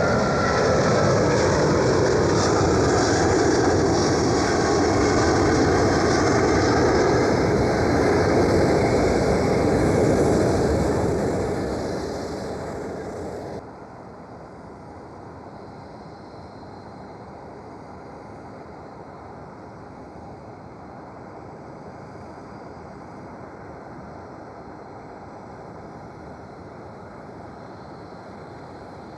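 Jet aircraft engines passing close by, loud, with tones that fall in pitch as the plane goes past, then fading away. About 13 seconds in the sound cuts off suddenly, leaving only a quieter steady background noise.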